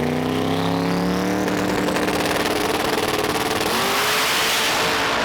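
Drag race car engine revving up hard and held at high rpm, with a faint high whistle rising in pitch over the first two seconds and a small step up in engine pitch near the end.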